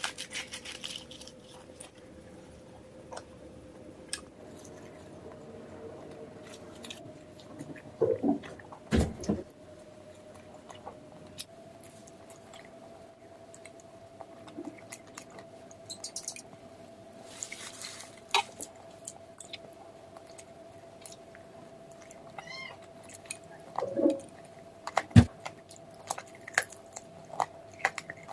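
Close-miked eating sounds from chicken curry: scattered mouth clicks, smacks and chewing, with a few louder pitched mouth noises, over a steady faint hum.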